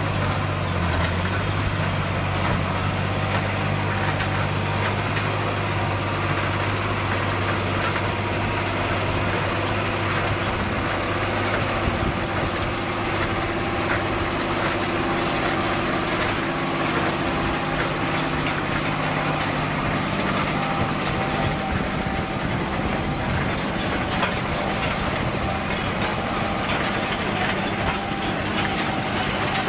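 A heavy machine's engine running steadily under constant mechanical clatter. Its low hum eases off about two-thirds of the way through.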